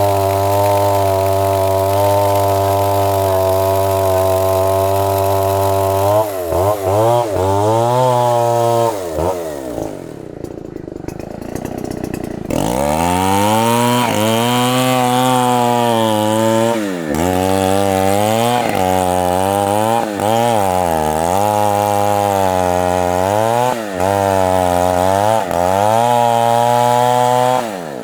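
Chainsaw cutting into the base of a very large tree trunk, running steadily at high speed at first. Its pitch then repeatedly sags and recovers as it works through the heavy cut. About ten seconds in it drops to a lower, quieter idle for a couple of seconds, then revs back up.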